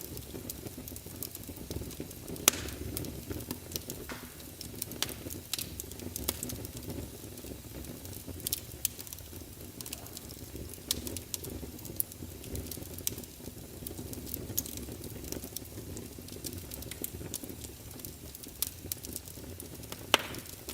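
Wood fire of burning logs crackling and popping, with irregular sharp snaps over a steady low rumble of the flames; the loudest pop comes about two and a half seconds in.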